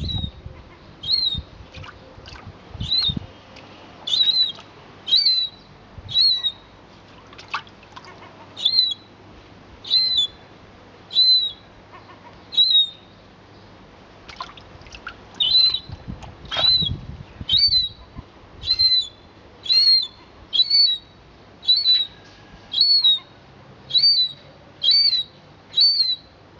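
A bird calling one short, high chirp about every second, over and over, with a pause about halfway through.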